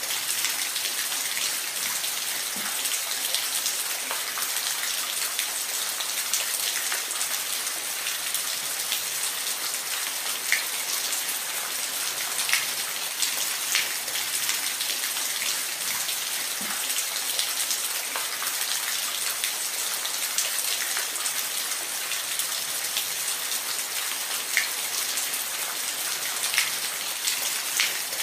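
Falling water: a steady, even hiss, with short drop-like ticks standing out every few seconds.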